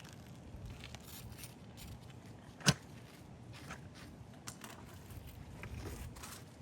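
Light handling noises: scattered soft ticks and rustles, with one sharp click about two and a half seconds in that is the loudest sound.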